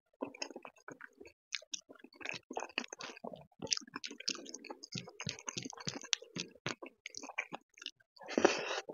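Close-miked ASMR eating sounds: wet chewing and mouth clicks of dal and rice, with the squelch of fingers mixing the dal and rice. Near the end a louder, denser burst of sound as a handful is taken into the mouth.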